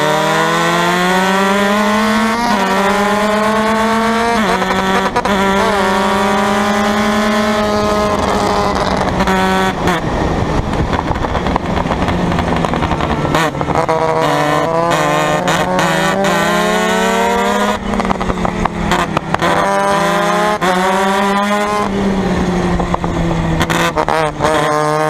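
Formula Mazda race car engine running hard, its pitch sweeping up through the gears and dropping back at each shift and corner, with sharp crackles near the middle as it slows.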